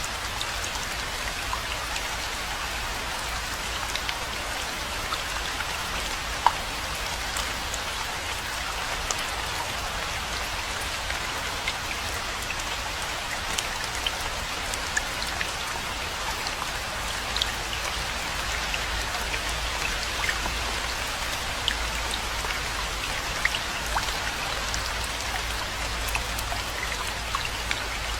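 Steady rainfall, a constant hiss of rain with many individual close drops heard as scattered sharp ticks.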